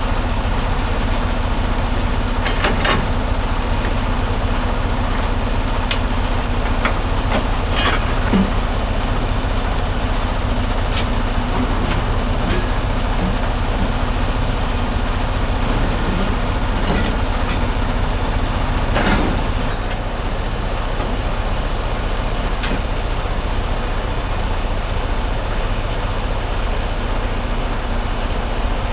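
Semi-truck diesel engine running steadily, a low, even rumble heard from inside the cab, with a few faint clicks and knocks.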